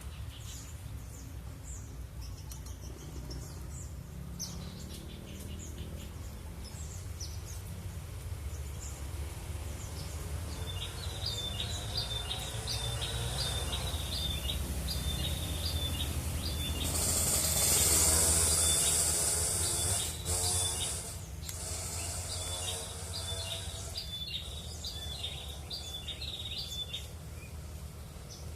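Small wild birds chirping, with one bird repeating a run of short high notes several times a second from about a third of the way in. About halfway through, a loud high hiss rises for roughly three seconds. A steady low rumble runs underneath.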